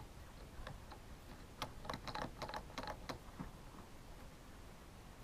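Light clicks and taps of small parts of a Husqvarna T435 chainsaw's trigger and handle assembly being handled and fitted together. A few separate ticks, then a quick run of clicks between about one and a half and three seconds in.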